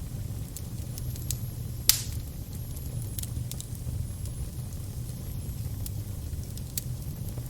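Crackling fire: a steady low rumble with scattered sharp pops and crackles, the loudest pop about two seconds in.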